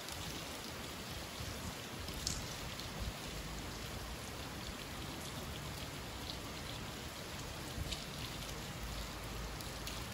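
Summer rain falling steadily: an even hiss of rain with a couple of sharper drop ticks standing out.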